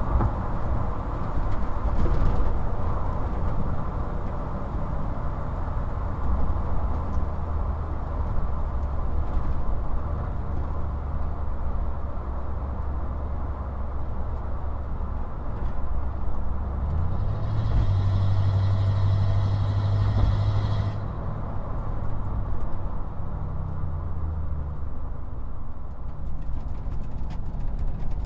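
1995 Ford Bronco driving, heard from inside the cab: a steady engine drone over road rumble. The engine note steps up in pitch about two-thirds of the way through, then settles back down a few seconds later.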